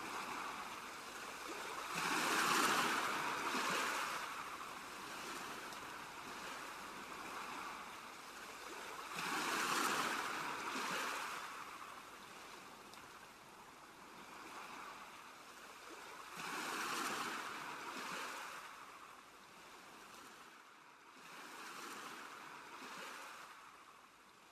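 Ocean waves washing ashore: four swells of surf about every six to seven seconds over a steady hiss, the last one weaker and the sound dying down near the end.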